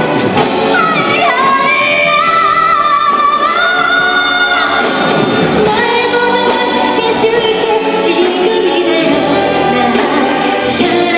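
A woman singing a slow pop song live with orchestral accompaniment, holding long, wavering notes.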